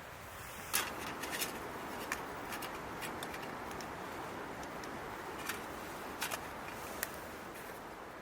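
Wood fire crackling: irregular sharp pops over a steady hiss, the loudest pop about a second in.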